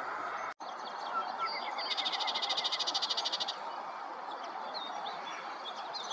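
Songbird giving a fast trill of high notes, about a dozen a second for about a second and a half, with a few other short chirps over a steady outdoor hiss.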